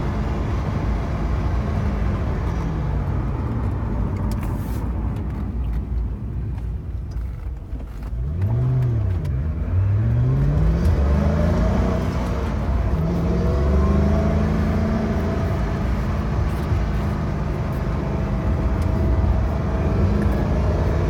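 Ford GT's supercharged V8, heard from inside the cabin. It slows and falls in pitch, then accelerates hard through several quick gear changes, its pitch rising and dropping with each shift, and settles into a steady cruise.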